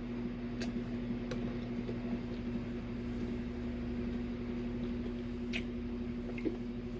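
Steady low electrical hum of a household appliance, with a few soft clicks and smacks of someone eating.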